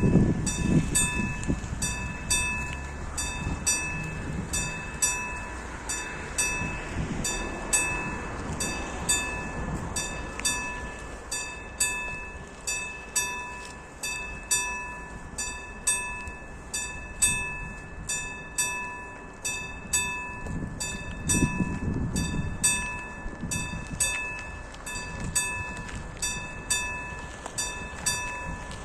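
Level crossing warning bell, a classic mechanical bell with AŽD 71 signals, ringing with rapid, evenly repeated strokes throughout. A low rumble swells at the start and again about 21 seconds in, consistent with a train on the track.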